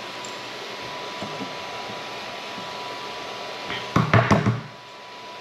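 Snapping and prying support material off a 3D-printed plastic part by hand: a quick cluster of sharp plastic clicks and knocks about four seconds in, over a steady background hiss.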